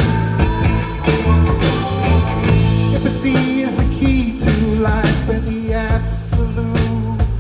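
Live rock band playing an instrumental passage: guitar lines over bass and a steady drum beat.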